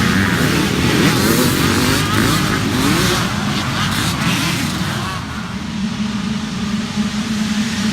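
Engines of small pee wee and mini dirt bikes revving and running on the track, their pitch rising and falling, over a steady low hum.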